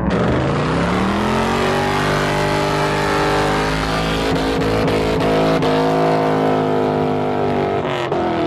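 A car engine revving up over the first couple of seconds and then held at high revs, steady, over a loud hiss of spinning tyres: a car doing a burnout.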